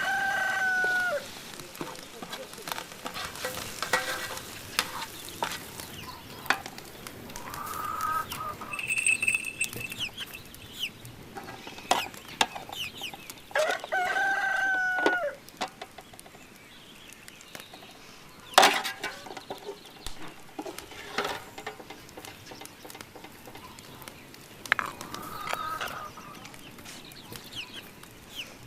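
Rooster crowing twice: a short crow at the start and a longer held crow about halfway through, each falling in pitch at the end. Between them come short clucks and chirps, scattered clicks, and one sharp knock about two-thirds through.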